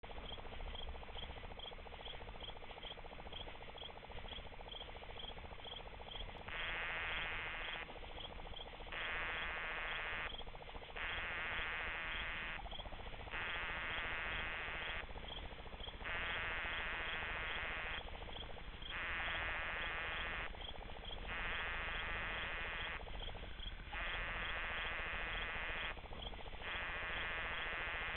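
Night insects: a cricket chirping steadily about twice a second, and from about six seconds in, a louder buzzing call that comes in bursts of one to two seconds with short pauses between them, as katydids sing.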